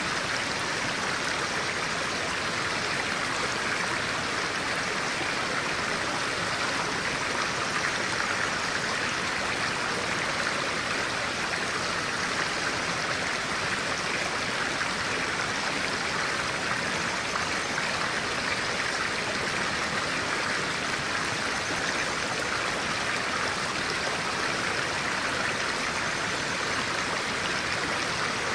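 Clear-water stream flowing steadily, an even, unbroken rush of water.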